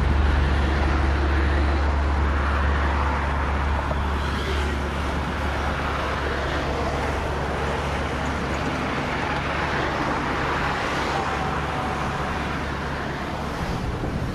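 Low steady drone of a receding train, fading slowly as it draws away, over road traffic noise.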